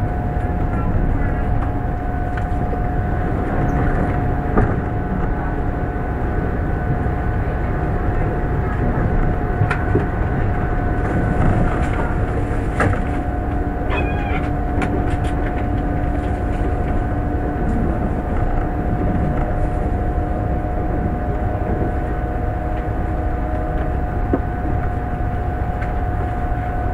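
Running noise of an E1 series MAX double-decker Shinkansen heard from inside the car: a steady rumble of wheels on rail with a constant whine, and a few sharp clicks from the track.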